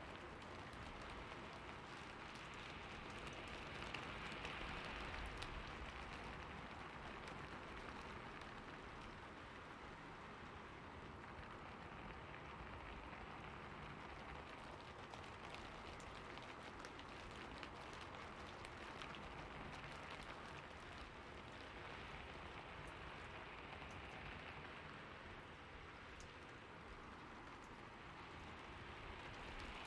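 Steady rainfall, an even hiss of drops falling on surfaces, with scattered fine drop ticks.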